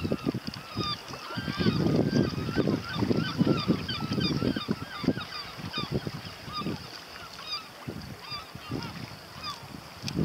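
Birds chirping in a busy chatter of short calls over a low buffeting noise, which is loudest from about two to five seconds in.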